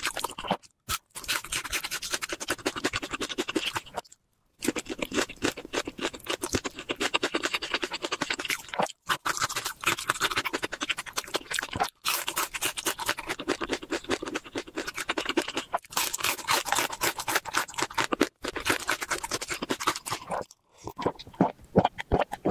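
Close-miked crunching and chewing of crispy fried chicken: dense, rapid crackles broken by several brief silences. Near the end the crunching gives way to gulping from a drink.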